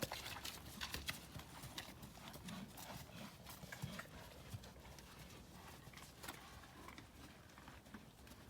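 Horse's hoofbeats: a faint, irregular clatter of hoof strikes that grows fainter toward the end.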